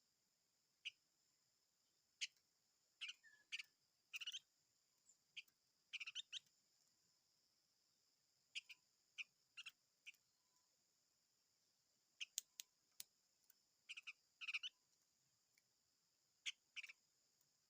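A small songbird of the kind called 'chim ngũ sắc' in Vietnamese ('five-coloured bird') singing in short, high chirps. The chirps come in irregular bursts and quick clusters with gaps between them, over a faint steady high hiss.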